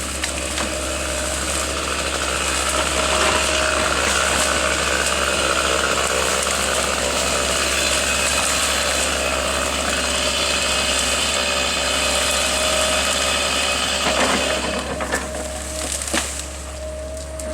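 Engine-driven tree-removal machinery running steadily, easing off about fifteen seconds in.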